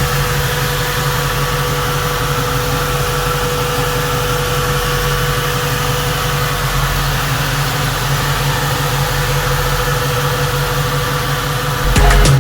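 Custom 1963 Chevrolet Nova's engine idling steadily, with an even low rumble. Music starts right at the end.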